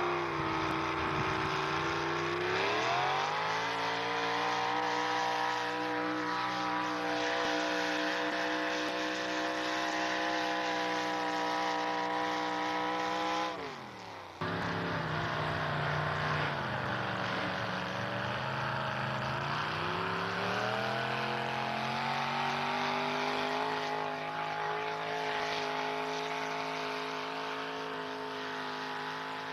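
Pulling truck engine at full throttle under heavy load: revs climb quickly and hold high and steady, then drop off sharply about halfway through. A second run of the engine starts abruptly, sags, then climbs and holds high again.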